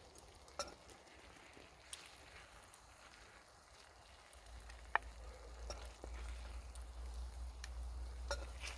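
Food frying in a pan over a campfire: a faint steady sizzle with scattered sharp pops and ticks, the loudest about five seconds in. A low rumble comes in about halfway.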